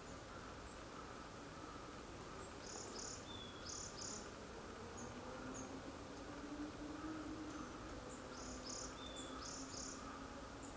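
Faint, high, thin calls of long-tailed tits: two short bursts of a few notes each, about five seconds apart, with scattered faint high ticks between them. A faint low steady hum comes in about halfway.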